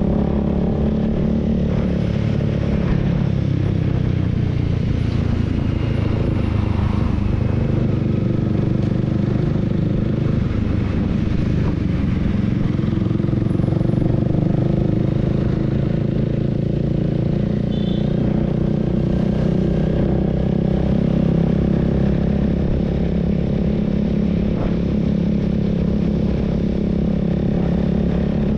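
Honda Rebel 300's single-cylinder engine running steadily at cruising speed, heard from on board the motorcycle, with a slight change in engine note a few seconds in.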